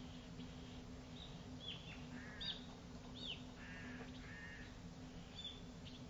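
Wild birds calling: a scattering of short, sharp down-slurred calls and a few harsher, buzzy calls, over a faint steady hum.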